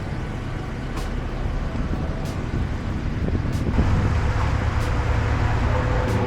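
Car engine and road noise heard from inside the car as it creeps forward in a drive-thru lane, growing louder a little under four seconds in as the car moves off.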